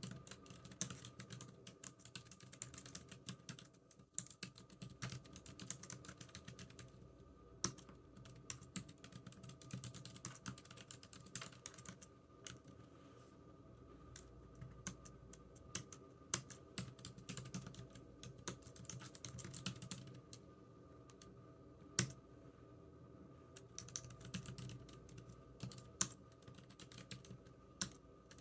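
Computer keyboard being typed on in irregular runs of keystrokes, with short pauses between bursts and an occasional harder key press.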